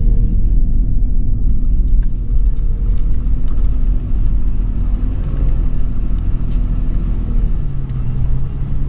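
Toyota 4Runner's 4.0-litre V6 engine running under load as the SUV drives over sand, heard from inside the cabin as a steady, deep rumble. The engine note drops a little near the end.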